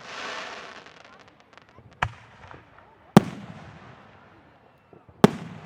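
Aerial fireworks bursting: a crackling hiss in the first second, then three sharp booms, each echoing away.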